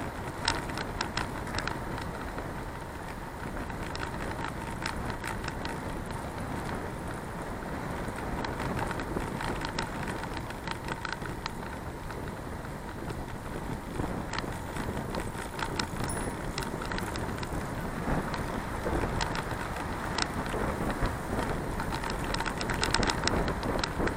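Bicycle ride picked up on an action camera's microphone: steady rolling and wind noise with frequent small sharp clicks and rattles, thickest near the start and again near the end.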